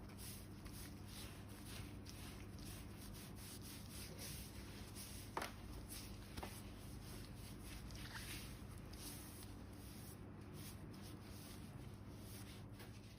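Faint, close scratchy rubbing and rustling of hands working over the skin of a foot, peeling or scraping dead skin, with a sharp click about five seconds in and a softer one a second later.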